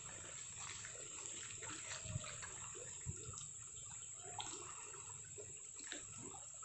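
Rain falling, with irregular drops splashing and dripping close by.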